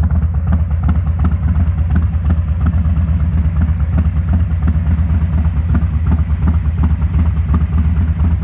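Harley-Davidson Breakout 114's Milwaukee-Eight 114 V-twin idling through its exhaust after a swap to an aftermarket high-lift cam, a steady run of deep exhaust pulses.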